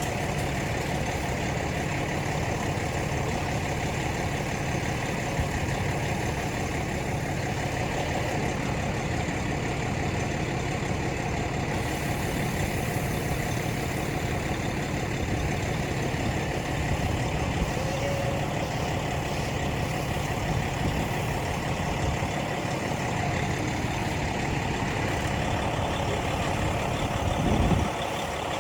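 A vehicle engine running steadily with a low hum, with a brief louder rumble near the end.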